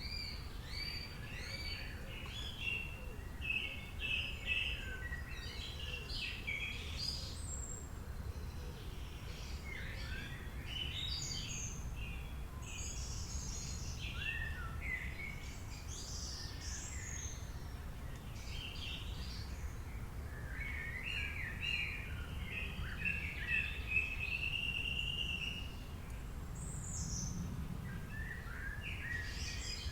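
Several wild birds singing and chirping with varied short calls and phrases, one long trill from about 21 to 26 seconds in, over a steady low background rumble.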